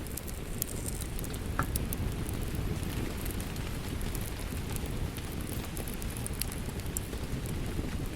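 Wood fire crackling with scattered sharp pops, one clearer pop about a second and a half in, over a steady rush of rain.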